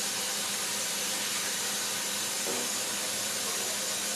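Kitchen tap running steadily into a sink, an even hiss of flowing water.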